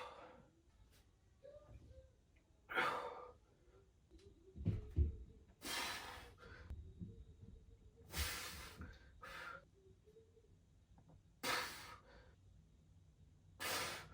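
A man breathing hard, with forceful hissing exhales about every three seconds as he strains through slow dumbbell curls. A couple of low thuds come in the middle.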